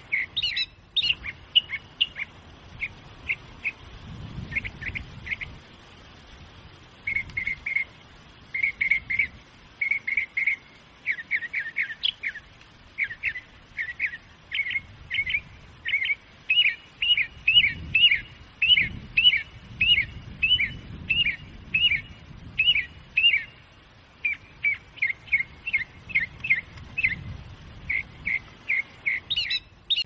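Birds chirping in trees: a long run of short, high chirps, some in quick series, thickest in the second half, with a brief lull about a fifth of the way in.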